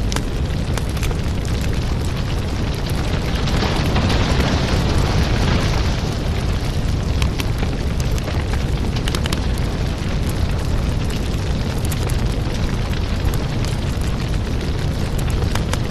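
Firewood burning, with a steady rush of flames and frequent sharp crackles and pops from the logs. It swells louder for a couple of seconds about four seconds in.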